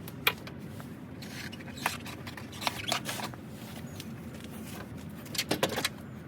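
Scattered sharp clicks and light clatter of tools and parts being handled, with a quick run of clicks near the end, over a low steady hum.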